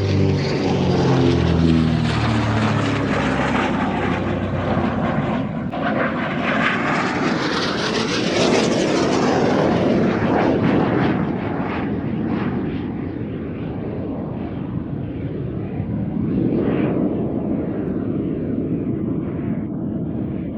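An F-86 Sabre jet and a DH.88 Comet with its twin de Havilland Gipsy Six piston engines passing together in formation. The propeller drone falls in pitch over the first few seconds, then the jet's rushing roar swells, loudest and hissiest about eight to ten seconds in. It fades and rises again briefly near the end.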